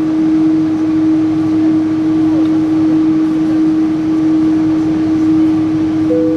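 Steady cabin noise inside a Boeing 777-300: an even hum of engines and air handling with one constant tone running through it. A short, higher tone sounds near the end.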